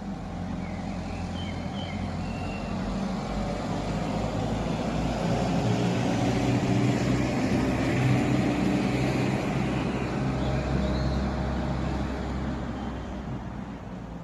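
A motor vehicle passing by: engine and road noise grow louder to a peak about halfway through, then fade away.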